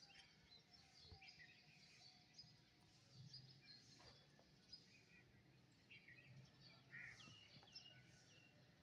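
Faint, scattered chirps and short calls of several songbirds, with a few quick falling notes about seven seconds in, over a faint low hum.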